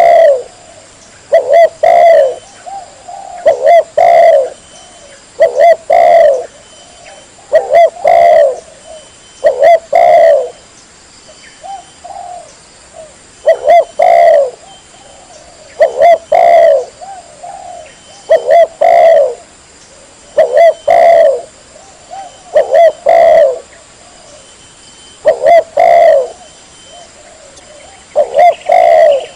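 Spotted dove (tekukur) cooing loudly and clearly, a lure call for wild doves. Its short phrases of low coos repeat about every two seconds.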